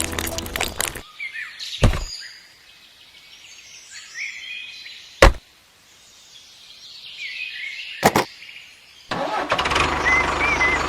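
Music stops about a second in. Then come birds chirping, with three sharp knocks a few seconds apart, and a steady engine-like hum starts near the end.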